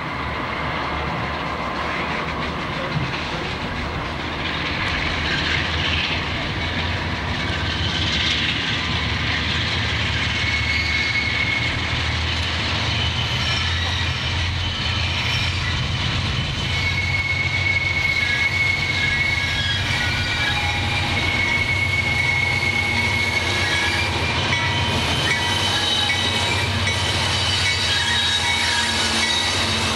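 CSX diesel freight locomotives approaching on a curve and passing close by, the engines' low drone growing steadily louder. From about a third of the way in, thin high-pitched wheel squeal from the curve rises over it.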